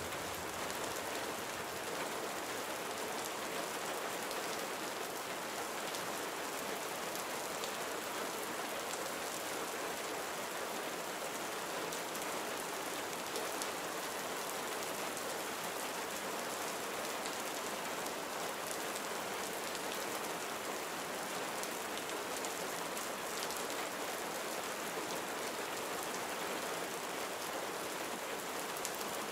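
Steady gentle rain falling on surfaces, an even patter of raindrops with no break or change.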